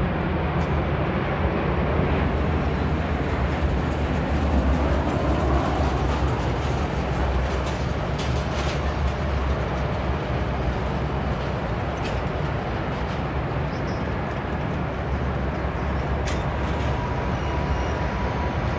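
Steady low rumble and roar of jet airliner engines, holding even throughout.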